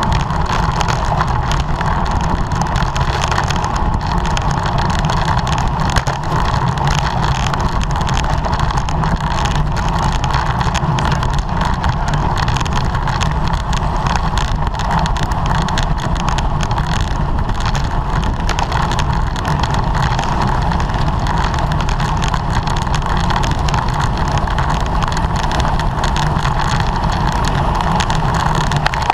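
Steady rush of wind and road noise on a camera riding on a racing bicycle at speed.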